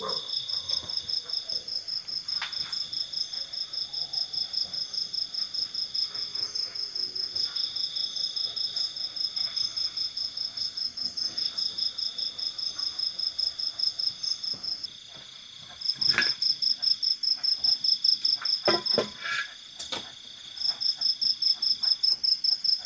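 Insects calling: a loud, high chirp pulsing about four times a second over a lower, steadier trill that breaks off every second or two. The chirping stops for about a second midway, and a few short knocks come in the latter part.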